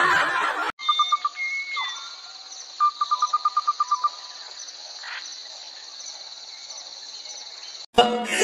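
Bird chirps over a steady high hiss: a few single chirps, then a rapid run of about a dozen, roughly nine a second. A loud rushing noise at the start cuts off suddenly, and music with singing cuts in at the very end.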